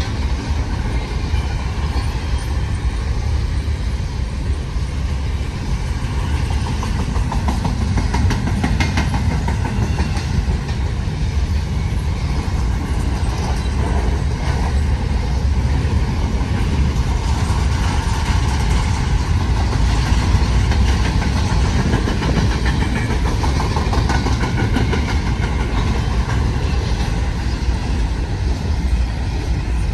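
CN intermodal freight train rolling past, its wheels clattering steadily over the rail.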